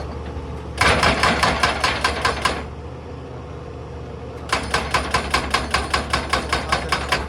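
Excavator-mounted hydraulic breaker hammering rock in two runs of rapid blows, about eight a second, the second starting about halfway through, over the excavator's steady diesel engine.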